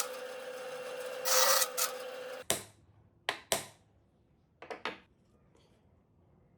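Abrasive rubbing on wood, as in sanding, for about two and a half seconds, followed by several short, sharp scrapes or knocks, the last two close together.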